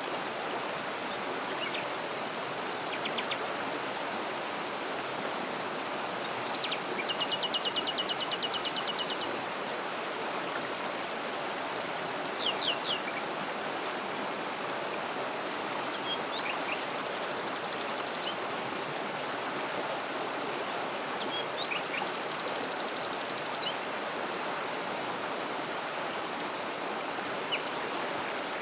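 Steady rush of a waterfall, with songbirds calling over it: several rapid trills of a second or two each and a few short chirps.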